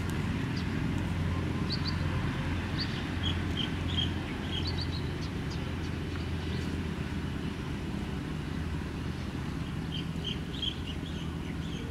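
Steady low rumble of outdoor background noise, with birds chirping in small clusters of short high chirps: a few in the first seconds, a quieter stretch in the middle, then more near the end.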